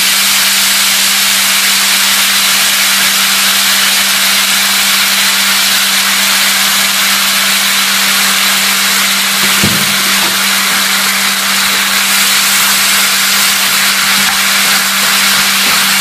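Chicken pieces and sliced onion sizzling steadily in a frying pan, with teriyaki sauce just added and cooking down. A steady low hum runs underneath.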